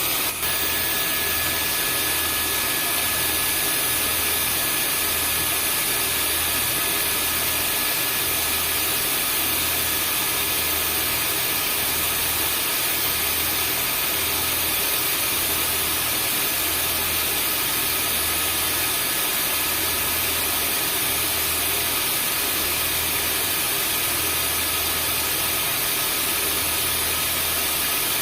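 Vacuum cleaner running steadily: an even rushing of air with a few fixed high-pitched whines over a low motor hum that pulses about once a second.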